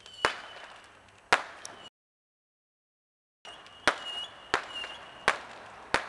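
Fireworks going off: six sharp bangs, two in the first second and a half and four more about two-thirds of a second apart near the end, with faint crackling between them. The sound cuts out completely for about a second and a half in the middle.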